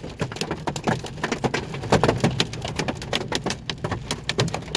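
Hail and heavy rain pelting down, a dense, irregular clatter of sharp impacts over the hiss of rain; the stones are penny-sized hail falling in a likely downburst.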